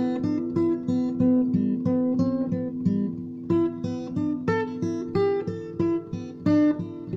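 Acoustic guitar playing an instrumental piece: notes picked one after another, several a second, in a repeating pattern over ringing bass notes.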